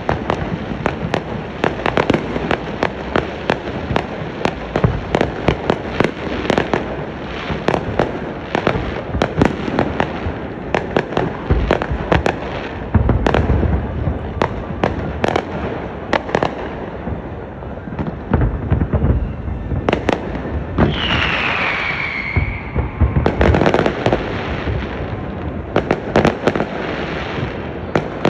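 Fireworks display: rapid, overlapping bangs and crackling from many shells going off, with a few heavier booms and a high falling whistle about two-thirds of the way through.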